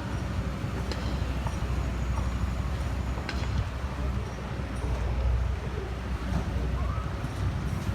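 A heavy vehicle engine running steadily with a low rumble, with a few faint clicks.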